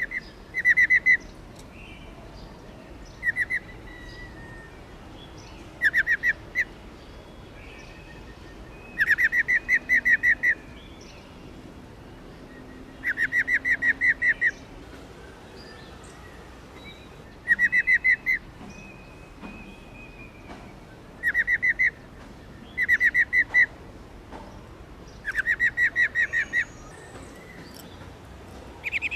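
Female black-throated laughingthrush giving its rolling 'ro ro' trill: short bursts of rapid pulsed notes, repeated every few seconds.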